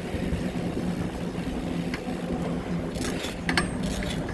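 Steady low hum of outdoor street noise, with a light click about two seconds in and a few sharp metallic clinks about three seconds in.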